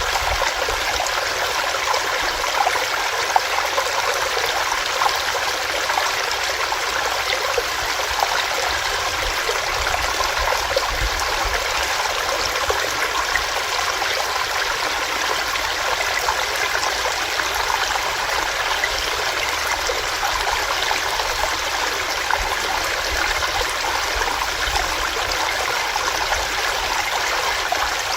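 Small stream running over rocks, a steady rush of water.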